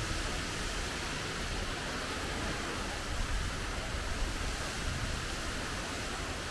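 Typhoon rain and wind: a steady hiss of heavy rain over a low, wavering rumble of wind.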